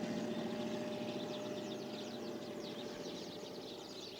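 A low engine rumble that fades steadily away, under a dense chatter of many small birds chirping in quick falling notes.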